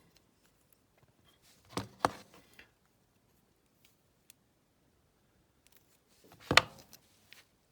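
Handling noises from a small die-cast metal model plane being worked by hand: a few sharp clicks and knocks, a cluster about two seconds in and the loudest one about six and a half seconds in, with near-quiet between.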